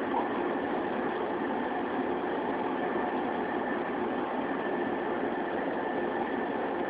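Running noise heard inside a JR 115-series electric train's motor car (MoHa 115) on the move: a steady, even running sound from the wheels and running gear, with no change in speed or pitch.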